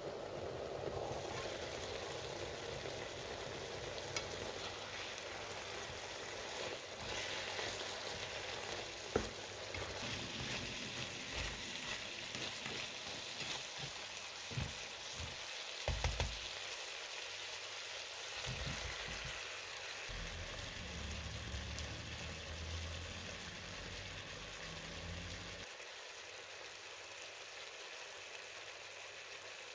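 Chicken pieces and onions sizzling steadily as they fry in oil in a frying pan, with a few sharp clicks and knocks.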